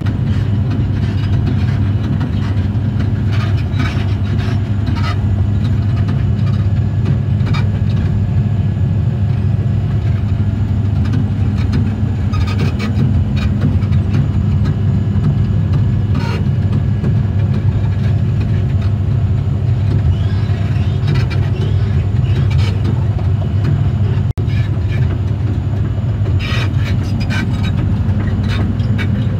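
Heavy crawler machine's diesel engine running steadily at close range, with scattered short clicks and squeaks from the moving machine throughout.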